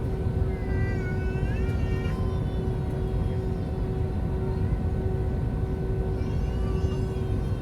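Airliner cabin noise inside an Airbus A320 in flight: a steady low rumble of airflow and its two IAE V2527 engines, with a constant hum tone running through it. Faint wavering pitched sounds come and go over it, about a second in and again near the end.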